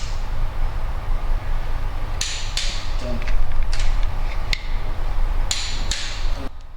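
Torque wrench clicking and ratcheting as the nuts on an RB engine's ARP cylinder head studs are tightened in stages, about half a dozen sharp clicks at uneven intervals.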